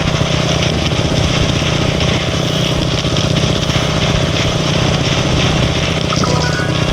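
Motorcycle engine running at a steady pace while riding, a loud, even engine drone.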